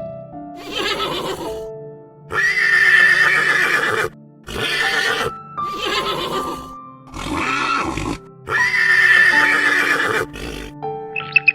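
Horse whinnying, about six separate neighs in a row, over steady background music.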